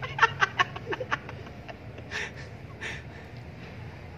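A person making short vocal sounds: a quick run of about six sharp staccato bursts in the first second or so, then two breathy puffs.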